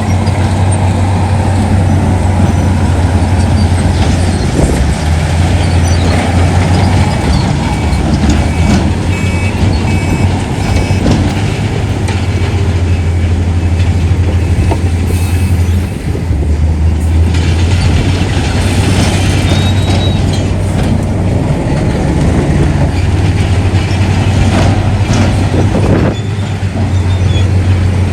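Heavy diesel construction machinery running under load: a steady low engine drone that rises and falls in level, with occasional sharp clanks.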